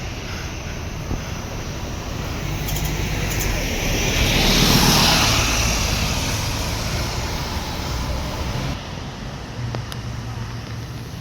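Scania K230UB city bus with its 9.3-litre DC9 diesel engine running, heard from the front of the cabin. A rush of noise swells to a peak about halfway through and then fades.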